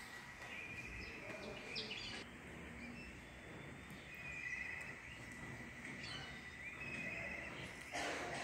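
Small birds chirping in short trills, several times, over a steady background hiss, with a brief noisy rustle near the end.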